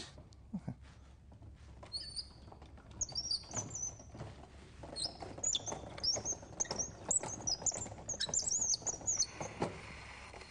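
Small birds chirping in quick, high twittering runs from about two seconds in until near the end, with a few soft knocks underneath. A faint steady hiss follows once the chirping stops.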